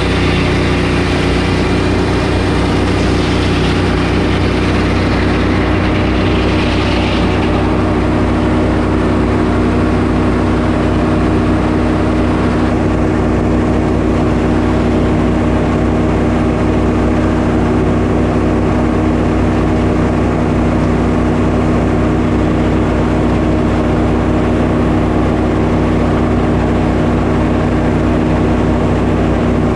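Sawmill's engine running steadily while milling a pine log. A higher hiss on top of the engine stops about seven seconds in.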